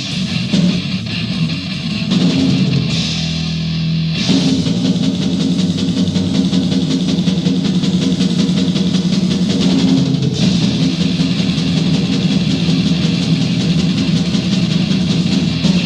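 Instrumental death metal demo recording: fast, heavily distorted electric guitar riffing over a drum kit, with no vocals. A held, ringing chord about 2 seconds in gives way to dense riffing again about 4 seconds in.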